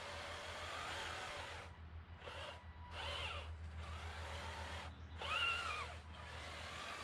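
Electric drive motor and gearbox of a radio-controlled 6x6 truck whining in spurts, the pitch rising and falling as the throttle is worked, with short pauses around two and five seconds in, over a steady low hum.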